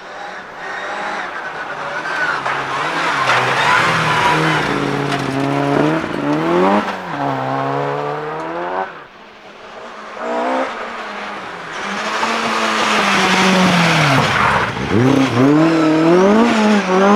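Rally car engine driven hard on a stage, revs climbing and dropping sharply over and over as it shifts gear and lifts for corners. About nine seconds in it goes briefly quieter, then another hard run follows, with the engine note dipping steeply near fifteen seconds.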